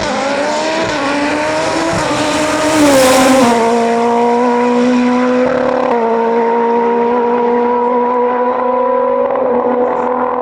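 Hill-climb race car engine accelerating as it passes close by, loudest about three seconds in. The engine note rises, then drops at gear changes about three and a half and six seconds in, and holds a steady pitch afterwards.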